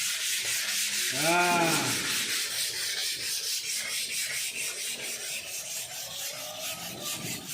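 Body filler on a car panel being hand-sanded with sandpaper in quick, even back-and-forth strokes: a steady rasping hiss, the sanding used to show up the high and low spots so the filler can be taken down thin.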